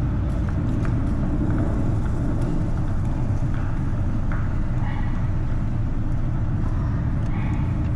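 Steady low rumble of a car ferry's engines heard on the car deck, with a few faint clicks and knocks.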